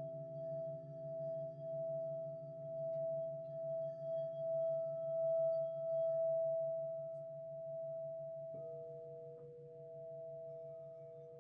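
Several crystal singing bowls ring together in long steady tones, the lowest one wavering in a fast pulse. Another bowl is struck about eight and a half seconds in and adds a lower tone under the held one.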